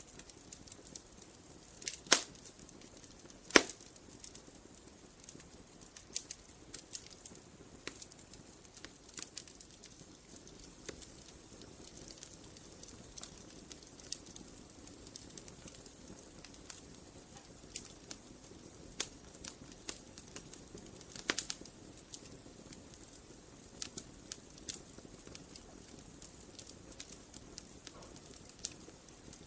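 Wood fire crackling: irregular sharp pops and snaps over a soft hiss, with a few much louder pops about two and three and a half seconds in and again about two-thirds of the way through.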